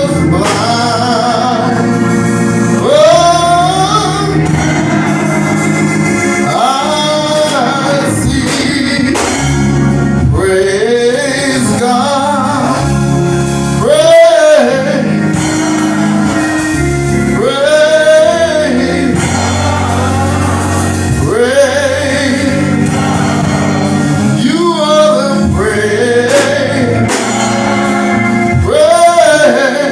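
Gospel music: a voice singing a slow, wavering melody over sustained keyboard chords.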